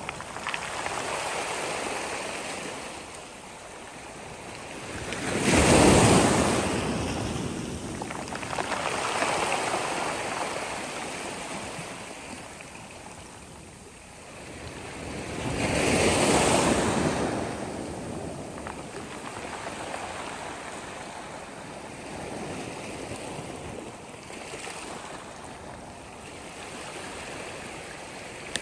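Sea waves breaking on a shore with a continuous wash of surf; two big waves crash about 6 and 16 seconds in, with smaller swells rising and falling between them.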